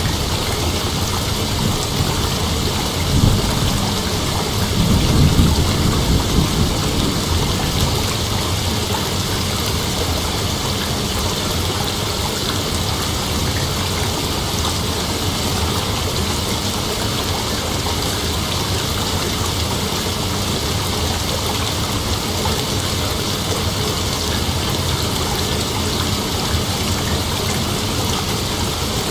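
Steady chorus of night insects, a dense, even drone with no separate calls standing out. A low rumble rises briefly about three seconds in and again around five to seven seconds in.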